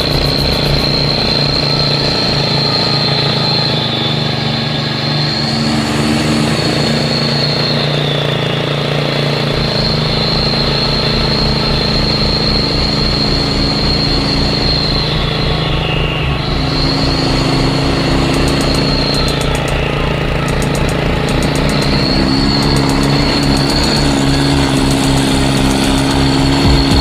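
Mini truck engine running with an even, steady low pulsing. A strong high steady tone sits over it and drops in pitch briefly a few times.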